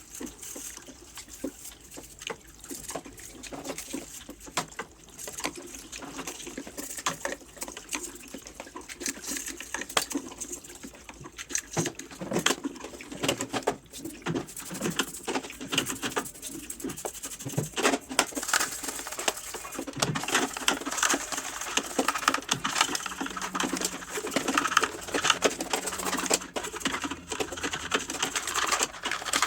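Toothbrush scrubbing a washing machine's drain filter wet with a vinegar and dish-soap mixture: a run of quick, uneven scratching strokes, busier and louder in the second half.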